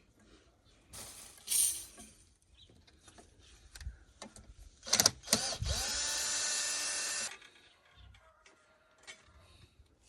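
A small motor-driven tool whirs up and runs for about a second and a half before stopping, amid scattered knocks and handling clatter.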